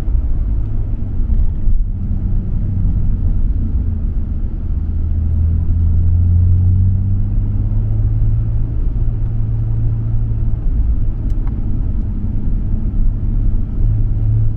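Nissan Skyline R34 GT-R's twin-turbo RB26 straight-six, through a MINES aftermarket exhaust, drones at low, steady revs while driving. The engine note swells slightly around the middle and then settles.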